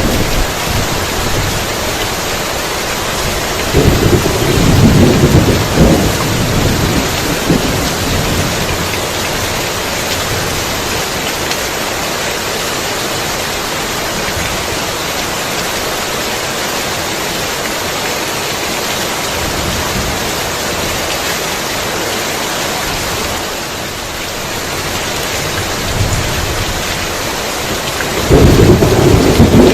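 Heavy rain falling steadily, with two loud rumbles of thunder: one about four seconds in lasting a few seconds, and another starting near the end.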